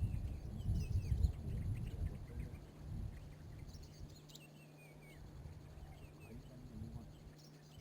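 Small birds calling in short, repeated falling chirps over outdoor ambience. Low rumbling and rustling noise fills the first three seconds, then gives way to a steady low hum.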